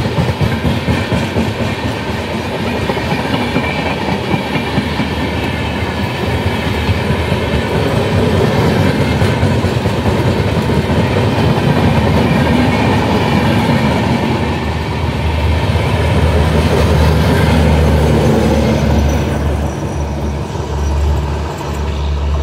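A passenger train's coaches rushing past close by, the wheels clattering rhythmically on the rails. The sound eases a little near the end as the last coach draws away.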